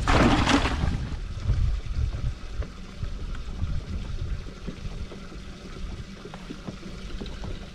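Wind rumbling on the microphone with light water noise around a small boat, fading after the first couple of seconds, with faint small knocks. A brief loud rush of noise at the very start.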